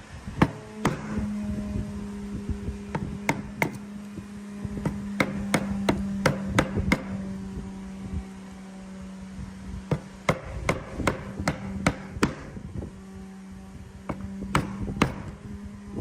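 Hammer blows on wood, sharp and irregular, coming in quick runs with short pauses between them, over a steady hum.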